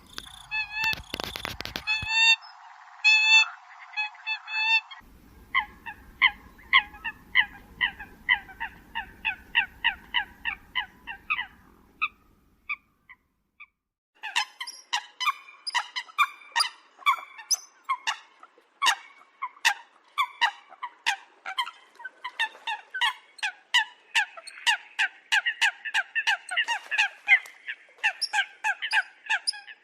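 Eurasian coots calling: long runs of short, honking calls, several a second, with a quiet gap of about two seconds near the middle. A brief noisy crackle comes about a second in.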